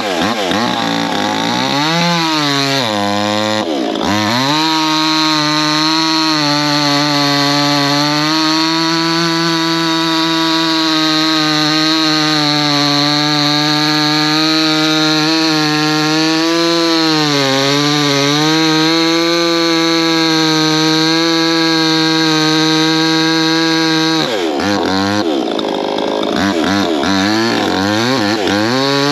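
Proyama 68cc two-stroke chainsaw with a 24-inch bar and full-chisel chain cutting through a poplar log. The engine revs up and down over the first few seconds, then holds a steady high pitch under load in the cut for about twenty seconds, with a brief dip in pitch partway through, and revs up and down again near the end before settling back.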